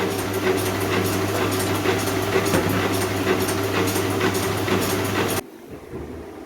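Power hammer running, with a steady hum under rapid, uneven clattering blows; it cuts off suddenly about five seconds in.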